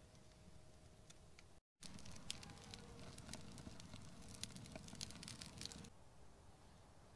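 Faint dense crackling and rustling of dry material, starting after a short cut about a second and a half in and stopping about six seconds in.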